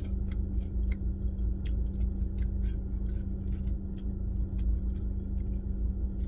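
Close-up crunching as a person chews a crispy fried burger topping, a string of irregular crisp crunches. A steady low hum runs underneath.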